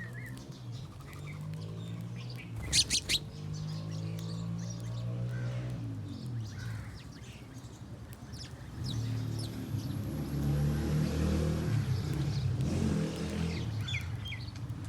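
Birds chirping, short high calls scattered throughout, with a loud cluster of three sharp chirps about three seconds in, over a steady low, pitched background drone.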